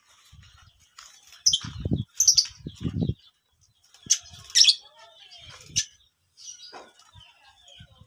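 Small birds chirping in short high bursts, with a few low rumbling bumps on the microphone about two and three seconds in.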